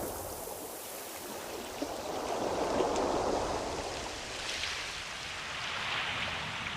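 Ocean waves washing in as a rising and falling rush of surf. The wash swells to its loudest about three seconds in, and a higher hissing wash follows around five to six seconds in.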